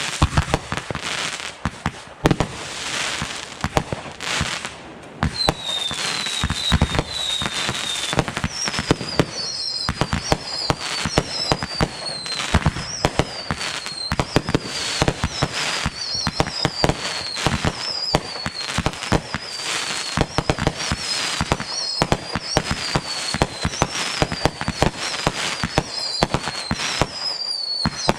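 Fireworks going off thick and fast: a dense, irregular run of bangs and crackling pops, with a repeating series of short, high, falling whistles over them.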